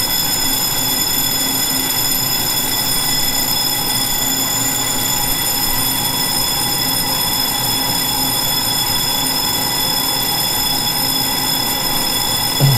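Steady hum with several high, even whining tones from a passenger train standing at the platform, its onboard equipment running.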